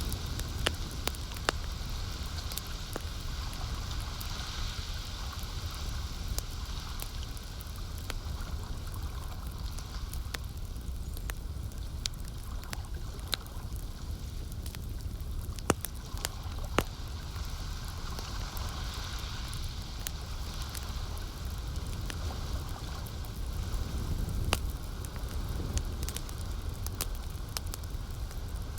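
Campfire crackling, with scattered sharp pops over a steady low rumble and the soft wash of lake water lapping.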